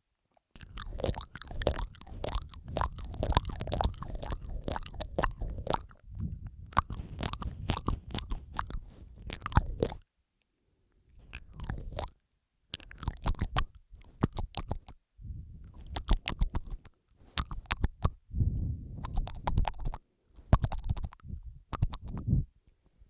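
Layered ASMR mouth sounds close to the microphone: wet lip and tongue clicks and smacking in dense runs of a few seconds, separated by short silent gaps.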